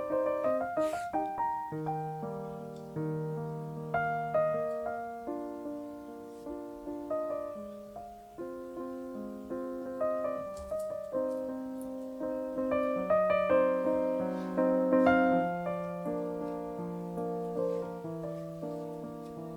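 Solo piano playing a melody over held lower notes, each note struck and ringing as it fades.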